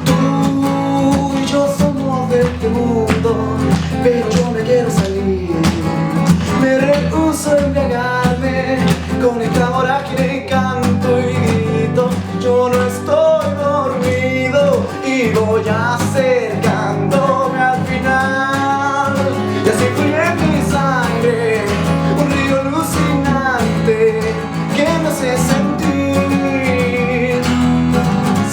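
Live song on acoustic guitar, strummed chords under a wavering melody line without words.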